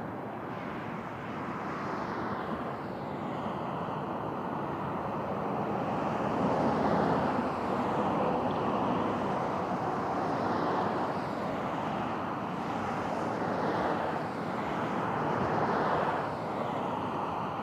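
Aircraft engines passing, a steady rushing noise that swells toward the middle and eases off toward the end.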